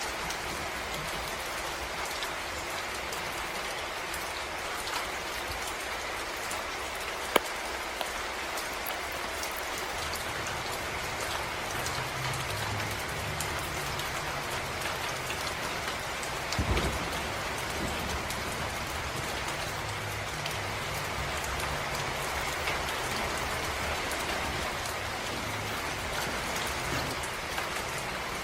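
Steady rain falling, an even hiss full of small drop ticks, with one sharp tick about seven seconds in and a dull low thud near the middle. A faint low hum joins the rain in the second half.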